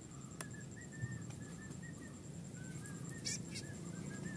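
A bird chirping: a run of short, high notes about three to four a second, over a low background rumble that grows louder near the end.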